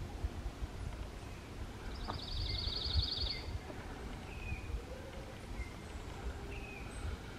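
Woodland ambience: a songbird sings a rapid, high trill lasting about a second and a half, starting about two seconds in, then gives a few short chirps, over a low rumble with bumps on the microphone.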